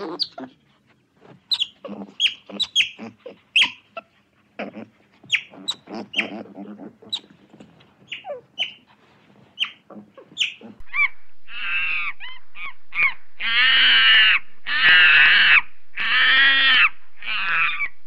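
Birds calling: many short, sharp chirps that drop in pitch over the first ten seconds or so, then louder, harsh calls about a second long each, one after another, over a steady background.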